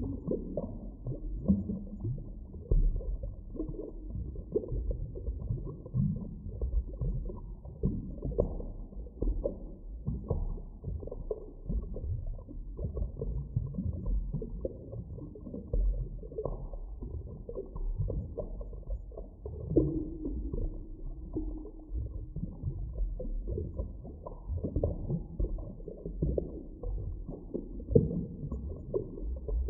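Muffled, deep underwater ambience: a constant low rumble with irregular swells and soft knocks, and a brief held low tone about two-thirds of the way through.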